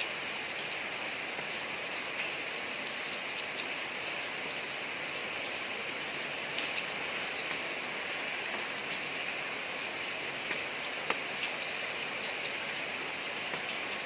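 Steady rain falling on a street, an even hiss with scattered individual drop splashes.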